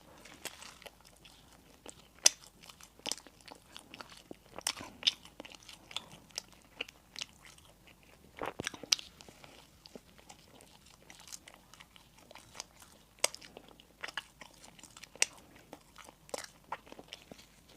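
Close-miked eating of crisp baked bread and burger buns: irregular crunching bites and chewing, with sharp crackly crunches every second or so.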